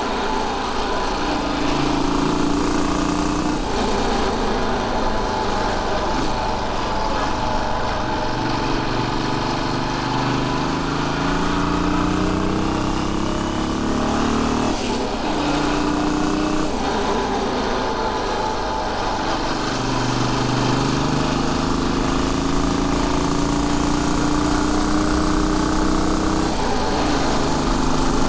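Royal Enfield Bullet 500's single-cylinder engine running under way, its pitch climbing as the bike accelerates and falling back sharply about three times at gear changes.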